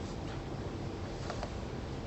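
Room tone: a steady background hiss, with a few faint small clicks or rustles about a second in.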